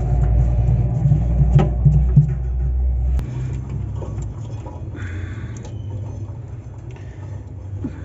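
Low machine rumble with a pulsing hum that cuts off with a click about three seconds in, leaving a fainter steady hum.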